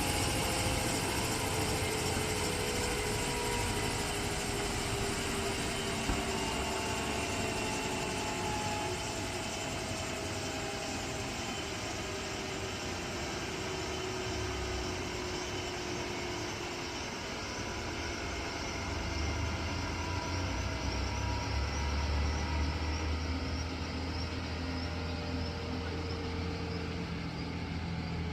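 Airbus ACH145 helicopter's twin turbine engines whining, the pitch sinking slowly and steadily. A steady low hum builds in about two-thirds of the way through.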